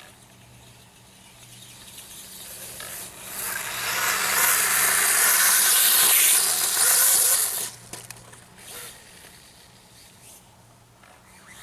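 A radio-controlled dirt bike running close by on loose dirt, a gritty rush of tyre and drivetrain noise that builds, holds for a few seconds and cuts off suddenly, over a faint steady low hum.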